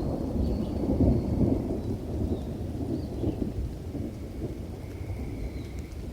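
Low, rolling thunder rumble in a rainstorm, loudest in the first second or two and slowly dying away.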